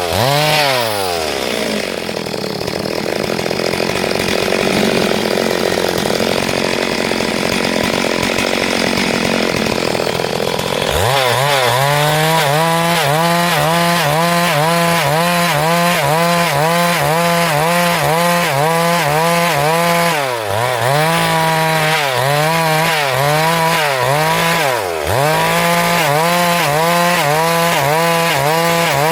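Chainsaw ripping a log lengthwise into planks. For the first ten seconds the engine is pulled down in the cut and sounds rough and noisy, then it runs at high, steady revs, dropping in speed briefly twice about two-thirds of the way through.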